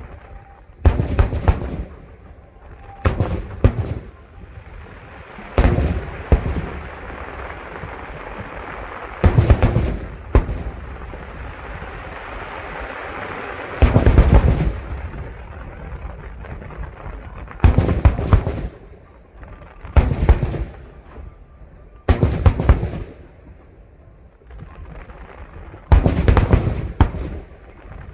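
Aerial fireworks shells bursting, about nine loud booms spaced two to four seconds apart, each followed by a short crackle, with a steady hiss between the bursts in the middle.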